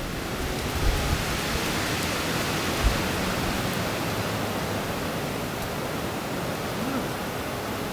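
A steady, even rushing noise, with a few dull low thumps in the first three seconds.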